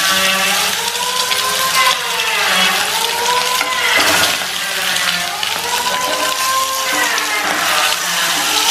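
Whole boiled eggs sizzling in hot oil in a non-stick kadai, a steady frying hiss, with a louder burst about four seconds in as more eggs are tipped into the oil. A melody of long, slowly rising and falling tones runs underneath.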